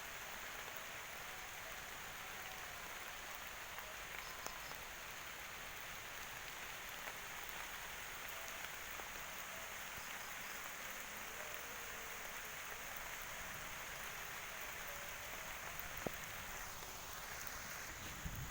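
Steady rain falling, an even hiss with a single sharp tick near the end.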